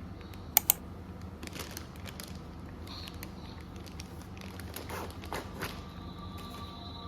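Two sharp clicks in quick succession about half a second in, then scattered light taps and rustling, over a steady low hum.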